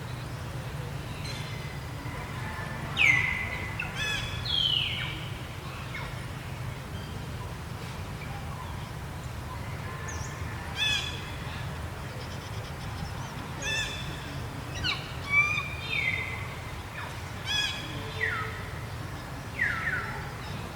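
Repeated high-pitched animal calls, about ten of them, several sliding down in pitch, the loudest about three seconds in and again in the middle. A steady low hum runs underneath.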